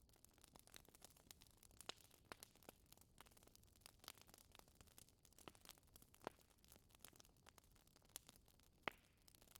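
Wood fire crackling in a fireplace: quiet, irregular pops and snaps, a few louder ones standing out over a faint hiss.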